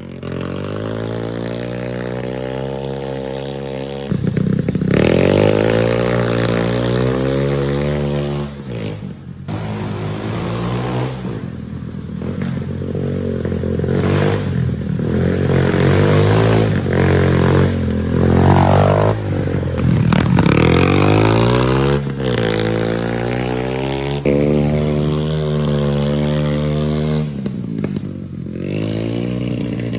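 A 90cc Chinese pit bike's small single-cylinder four-stroke engine being ridden hard, revving up and down through the gears with repeated rises and falls in pitch, and brief drops off the throttle.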